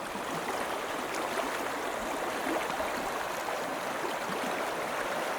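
A river flowing steadily.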